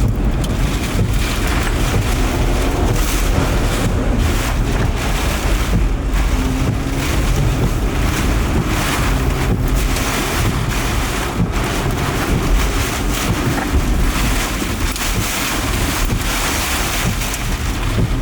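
Strong wind gusting against the microphone: a loud, steady rushing with a deep buffeting rumble.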